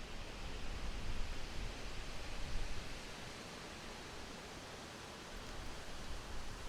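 Wind blowing through forest trees, a steady rustle of leaves with a gusty low rush. It eases about three seconds in and picks up again near the end.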